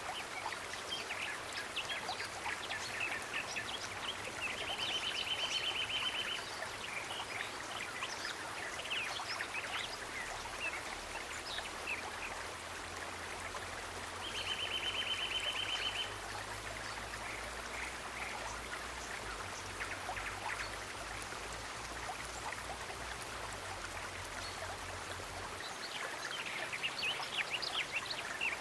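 Outdoor nature ambience: a stream of water running steadily, with scattered bird chirps and twice a rapid pulsing trill of about a second and a half. A faint low hum comes in around the middle.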